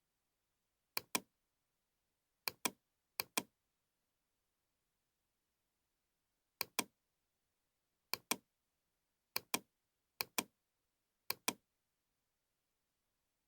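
Computer mouse button double-clicked eight times at irregular intervals: eight pairs of sharp clicks, each pair two quick clicks.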